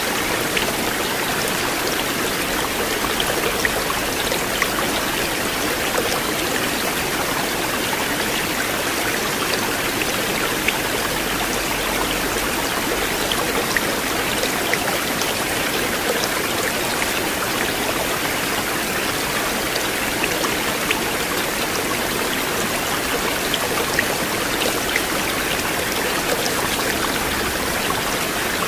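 River water flowing steadily: an even rush with small splashes and droplet ticks scattered through it.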